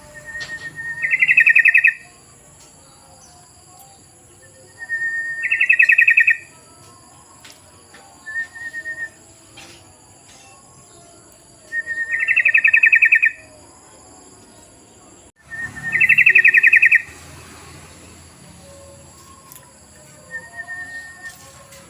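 Yellow-vented bulbul (trucukan) calls used as a lure: four loud phrases, each a short level note running straight into a fast rattling trill of about a second, with a few fainter short notes between them.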